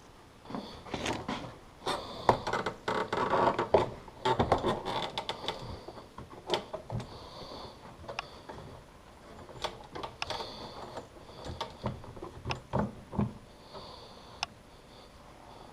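Hand work on metal parts: irregular clicks, knocks and scraping, busiest in the first six seconds, then sparser single clicks.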